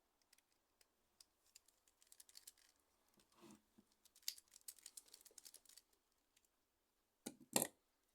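Faint clicks and scraping of small hard parts being handled, with two louder knocks close together near the end.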